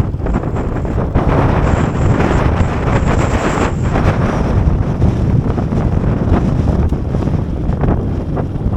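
Strong wind buffeting the microphone, covering the steady running of a Kawasaki KSR110's small single-cylinder engine on the move. A faint high whistle comes in about two seconds in and fades out before the midpoint.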